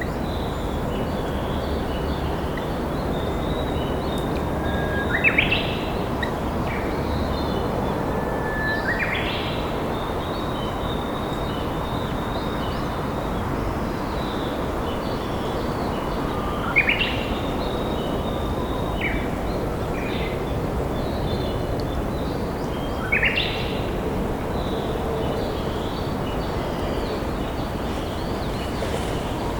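Steady rush of a flowing river with Japanese bush warblers (uguisu) singing over it: four loud phrases, each a held whistle that breaks into a quick higher flourish, while smaller birds chirp faintly in the background.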